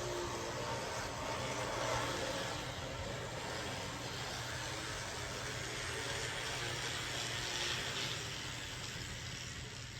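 N scale model train running on the layout's track: a steady whir of its small electric motor and wheels on the rails, growing a little louder about two seconds in and again near eight seconds as it passes closer.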